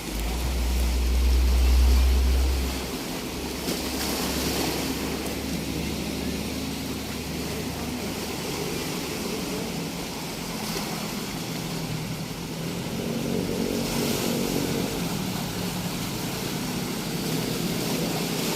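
Sea waves washing on the shore with an engine droning steadily underneath, the drone swelling about thirteen seconds in. Wind buffets the microphone with a heavy low rumble during the first three seconds.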